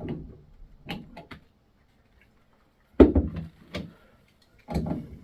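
Sharp knocks and clicks of a Moen shower valve cartridge being rotated and worked into the valve body by hand. The loudest knock comes about three seconds in, with a few lighter clicks before it and another knock near the end.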